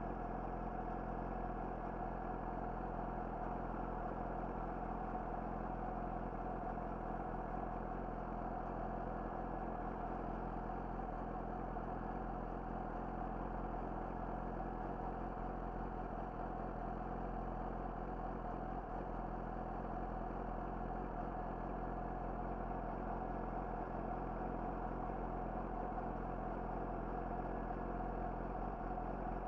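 Yamaha YZF-R6's inline-four engine through an Akrapovic slip-on exhaust, running at a steady, unchanging pitch with no rise or fall in revs.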